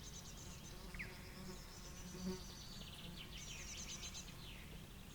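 High-pitched chirps and rapid trills from small wild creatures, the busiest run a little past three seconds in, over a faint low steady rumble.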